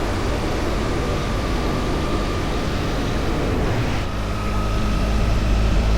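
Motorcycle engine running on the move under heavy wind rush, the engine note settling into a steady pitch about four seconds in.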